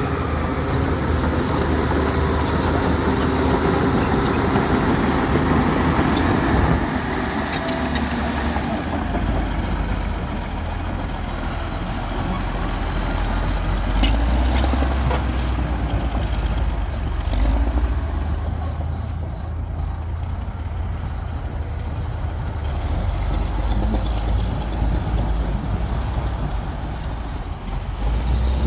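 Komatsu D60P crawler bulldozer's diesel engine running under load, with a few metal clanks from the tracks or blade. The engine is busiest for the first several seconds, then settles to a lower, steadier note.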